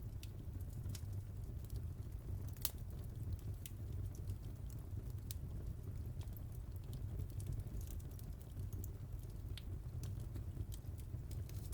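Wood fire in a fireplace crackling: irregular sharp pops and snaps, one louder snap a few seconds in, over a steady low rumble of the flames.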